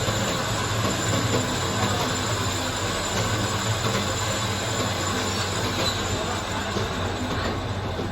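Workshop machinery running steadily: a dense, even mechanical noise over a constant low hum, with faint high squealing tones.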